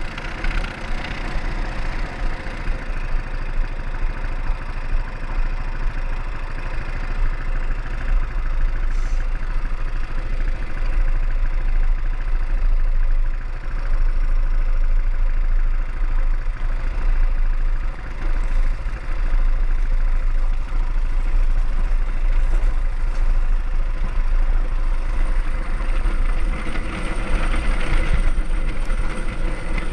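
Mini bike's small engine running steadily while being ridden, with heavy wind rumble on the microphone.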